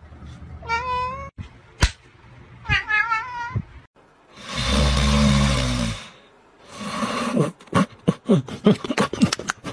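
Cat meowing twice, each meow short and wavering in pitch. Then a loud, breathy noise of about a second and a half with a low hum in it, a shorter one after it, and a quick run of clicks near the end.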